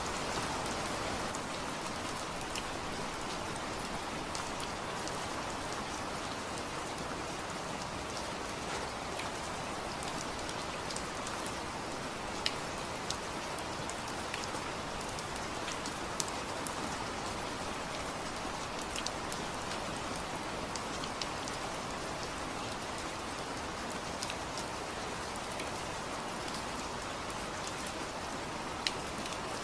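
Steady rain falling, a dense even hiss with scattered sharp drips and ticks of single drops landing close by.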